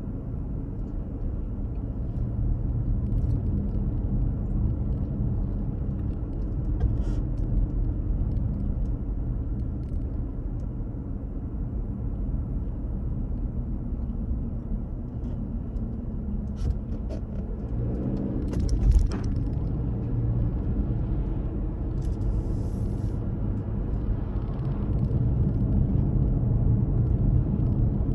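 Car driving on the road: a steady low rumble of engine and road noise, with a few light clicks and one louder knock about two thirds of the way through.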